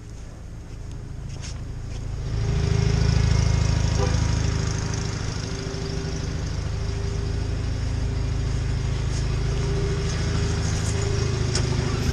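John Deere 318 garden tractor engine running, growing much louder about two seconds in and then holding a steady drone.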